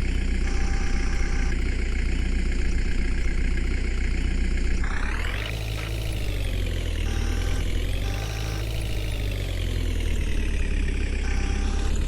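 Heavy diesel engine running steadily at idle. About five seconds in, its pitch rises and then wavers up and down for several seconds before settling back to a steady idle.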